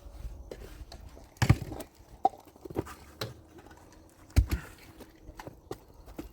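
A run of irregular knocks and clicks, with two heavy thuds about a second and a half in and again about three seconds later.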